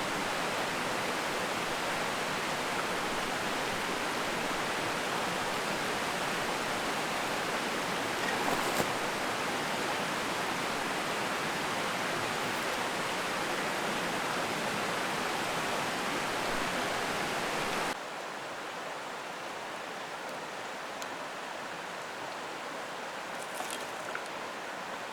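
Mountain stream rushing steadily over rocks. About eighteen seconds in it cuts abruptly to a softer, quieter rush of water.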